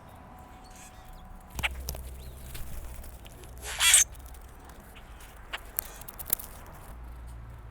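Backyard birds at close range: a few short sharp chips or ticks and one brief loud harsh burst about four seconds in, over a faint low rumble.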